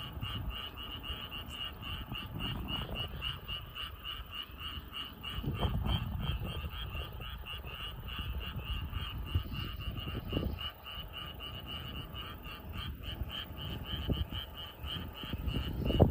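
Frogs croaking in a continuous chorus, a fast train of high pulses at around five or six a second that never lets up, with low rumbles at times.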